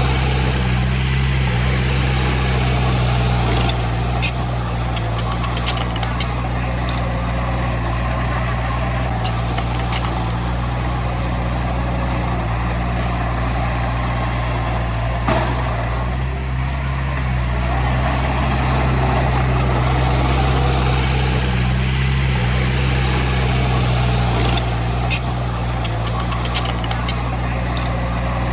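Heavy earthmoving machine's diesel engine running steadily, with scattered clicks and rattles throughout.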